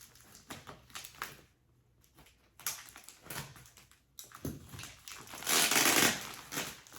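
Packaging being opened by hand: scattered small knocks and rustles of cardboard and wrapping, then a loud rustling rip of packaging lasting about a second near the end.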